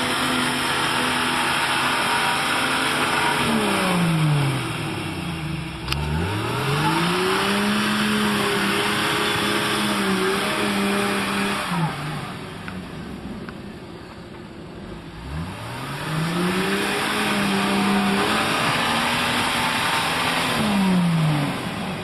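A vehicle engine revving up and down. Its pitch falls away about four seconds in, climbs back and holds, drops near twelve seconds, climbs again and holds, then falls near the end.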